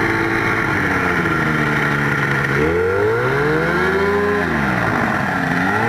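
Quicksilver GT 500 ultralight's engine and propeller running as it taxis on amphibious floats, revving up about halfway through and easing back down.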